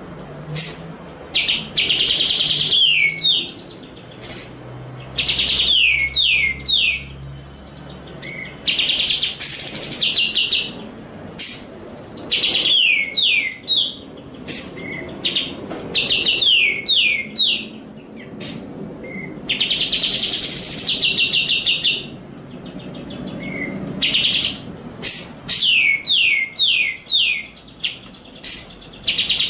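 Small songbird song delivered in bursts with short pauses: rapid series of high, downward-sweeping chirps alternating with buzzy trills, repeating every couple of seconds.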